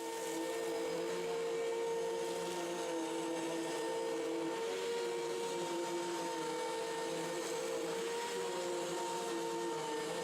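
Hoover WindTunnel T-Series Rewind UH70120 upright vacuum cleaner running steadily: a steady motor hum and whine over the rush of air.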